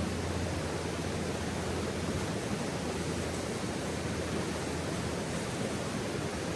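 Steady rushing outdoor noise, even and unchanging, with no distinct crackles or pops standing out.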